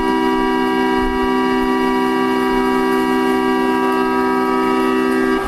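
Railway platform departure buzzer sounding one loud, continuous buzz, signalling that the limited express is about to depart. It cuts off suddenly near the end.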